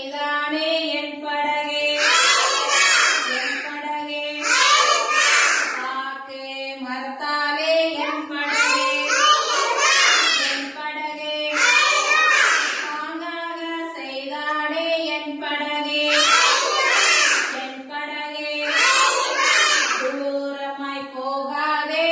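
A child singing a Tamil children's song in phrases of about two seconds each.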